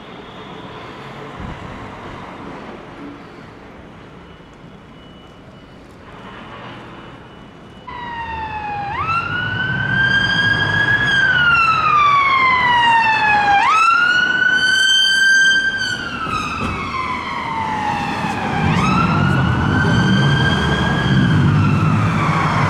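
Traffic noise, then about eight seconds in an emergency vehicle's siren starts wailing and grows loud as it approaches. Each wail jumps up in pitch and then falls slowly over about four seconds, repeating three times, with the vehicle's engine heard under it near the end.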